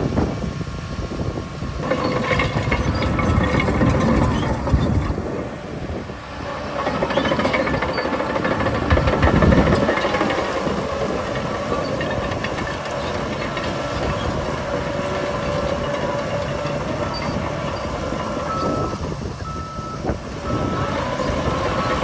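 Shantui bulldozer's diesel engine running under load as the machine pushes soil, a heavy continuous rumble that swells about nine seconds in. Near the end a short tone repeats at an even pace, like a reversing alarm.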